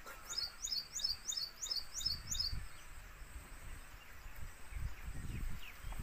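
A small bird calling a quick run of about eight high notes, each rising then dropping in pitch, over about two seconds near the start. Faint low rumbling follows near the end.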